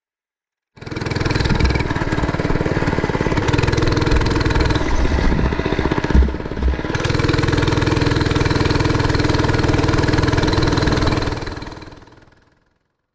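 Mini bike's small engine running steadily, with an uneven patch and a couple of low thumps about six seconds in, then dying away near the end.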